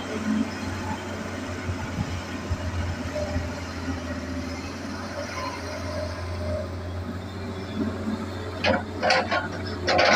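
Hitachi excavator's diesel engine running steadily with a low hum. Near the end there are a few short, sharp noises from the machine's work.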